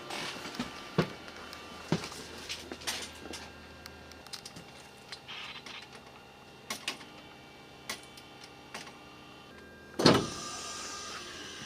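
Scattered sharp clicks and knocks over a faint steady hum, with one loud thump about ten seconds in.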